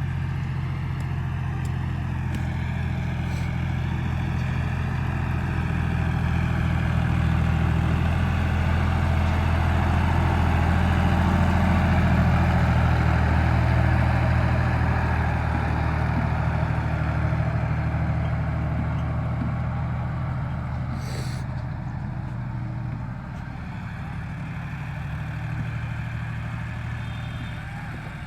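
John Deere 5045 tractor's diesel engine running steadily, growing louder toward the middle and then fading away, with one sharp click about two-thirds of the way through.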